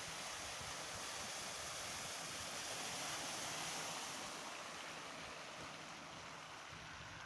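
Tyres hissing on wet asphalt as a vehicle passes, swelling to a peak about three to four seconds in and then fading away.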